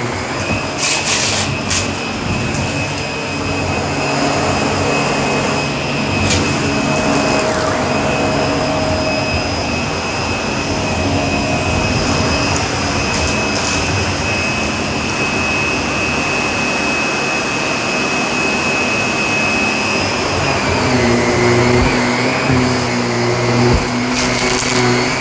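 Shark vacuum cleaner running steadily over carpet, its motor whining, with scattered clicks and crackles of debris being sucked up. The motor's tone shifts about twenty seconds in.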